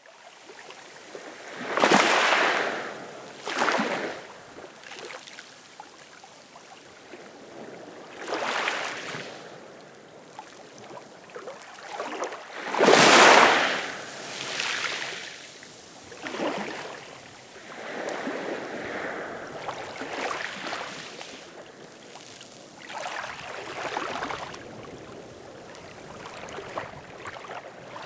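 Ocean waves washing in, in irregular splashing surges a few seconds apart, the loudest about halfway through.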